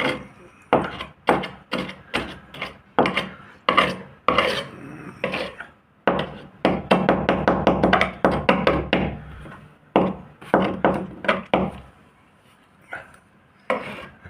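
Hand rubbing strokes worked back and forth on a boat hull, about two a second, quickening to a fast run in the middle and pausing briefly near the end.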